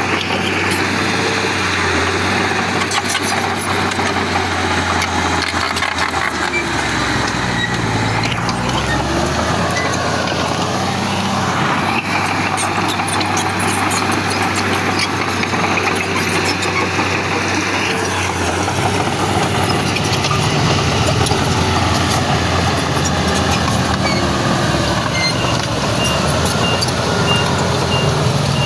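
Heavy diesel machinery, a bulldozer and a dump truck, running steadily under load. A reversing beeper sounds in a short even series near the end.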